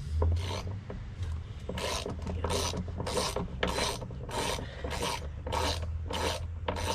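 A hand tool worked in steady back-and-forth strokes on the deck's wooden frame, rasping about one and a half times a second, the strokes starting nearly two seconds in, over a low steady hum.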